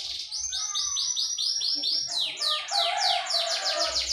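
Domestic canary singing: a rapid trill of repeated downward-sweeping whistled notes. About two seconds in it changes to a faster, wider-sweeping roll that runs on.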